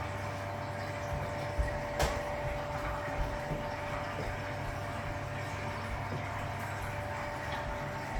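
Hoover Automatic 820 washing machine pumping out its water before the final spin: a steady pump hum with water rushing through, and a couple of brief knocks about a second and a half to two seconds in.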